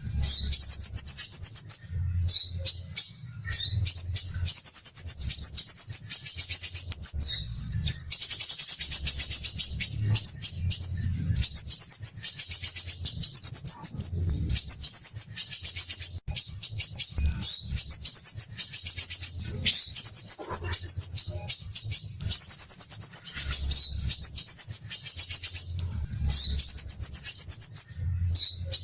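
Crimson sunbird (sepah raja) singing its rough, dense, rapid chattering trill (besetan kasar rapat): high-pitched buzzy phrases of one to three seconds, repeated one after another with only brief pauses.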